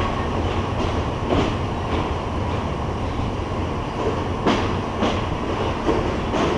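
Passenger train running on the rails with a steady rumble, its wheels clacking over rail joints, often in pairs.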